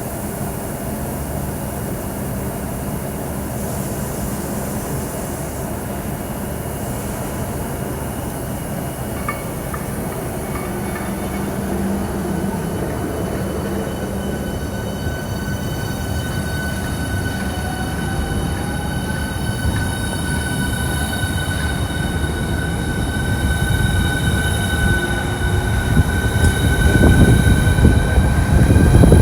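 Electric high-speed train: a steady electrical whine with several high tones over a rumble that slowly gets louder, heavier in the last few seconds as the train comes closer.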